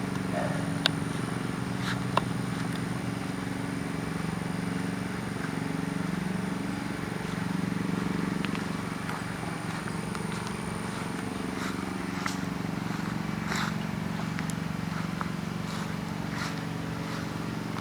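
A motor running steadily, a low even hum, with a few light clicks scattered through it.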